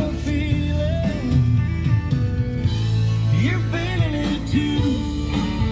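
A song with a singing voice playing on the 1991 Chevrolet Silverado's factory radio, heard inside the cab.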